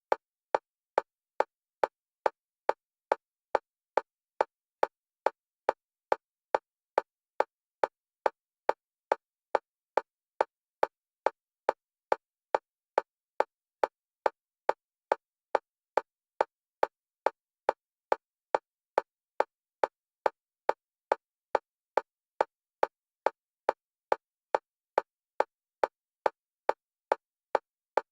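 Single-pitch metronome clicks for EMDR bilateral stimulation, alternating between the left and right stereo channels. The clicks are short and evenly spaced at a steady, fast pace of about two a second, with silence between them.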